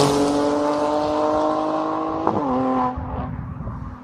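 Car engine running at speed, its note dropping as it goes by, then holding steady. About two seconds in there is a quick change of pitch, like a gear shift, and it settles to a lower note before fading out near the end.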